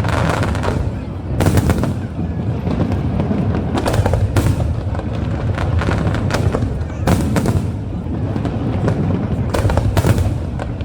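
Aerial fireworks bursting in rapid succession: a dense run of bangs and crackles over a continuous low rumble, with heavier booms about every two to three seconds.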